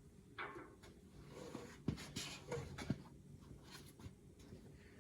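Light scraping and a few sharp, soft knocks of hand tools being handled and set against metal, with two clear knocks about two and three seconds in.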